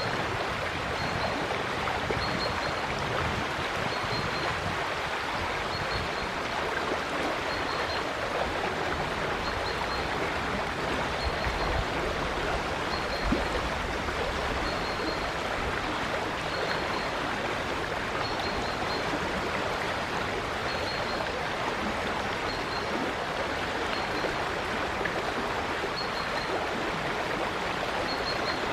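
River water flowing steadily, with a faint high chirp repeating every second or two.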